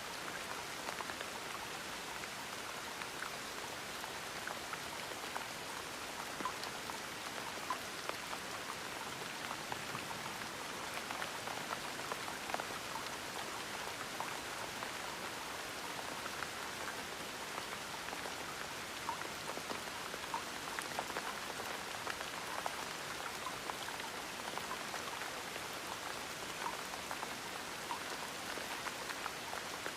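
Steady gentle rain, a constant hiss with many small drops pattering on a surface.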